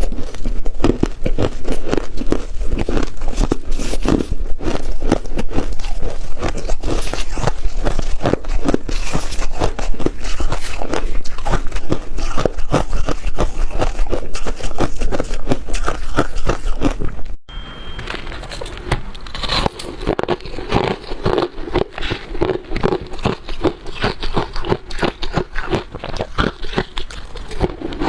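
Freezer frost being bitten and chewed close to the microphone: a dense, continuous run of crisp crunches. After a brief break a little past halfway, the crunching goes on quieter and duller.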